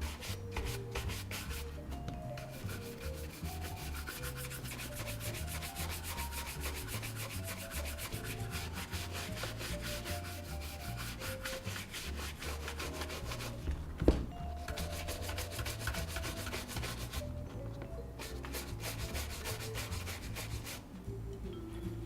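A bristle shoe brush scrubbing a leather boot in rapid back-and-forth strokes, in three runs with short pauses between. There is one sharp knock about fourteen seconds in.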